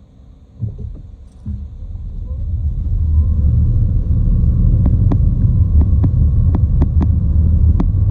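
Low vehicle rumble that builds up over a couple of seconds and then holds steady and loud, with a run of sharp clicks over it in the second half.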